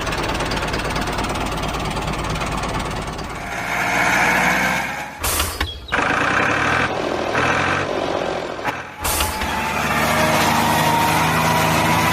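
A vehicle engine running, with a hiss about four seconds in. The sound breaks off abruptly twice, near five and nine seconds, as if edited.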